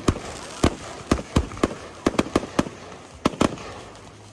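Fireworks display: a rapid, irregular string of sharp bangs from bursting shells, several a second, thinning out near the end.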